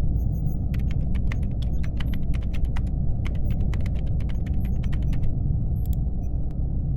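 Laptop keyboard typing in two quick runs of keystrokes, stopping about five seconds in, over a steady low hum.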